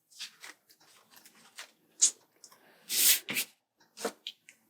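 A few short, scratchy sounds of paper sticker sheets being handled and stickers peeled off, the loudest about three seconds in.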